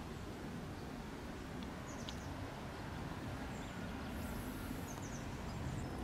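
Quiet outdoor village ambience: a steady low background rumble with a few short, high bird chirps about two seconds in and again about five seconds in.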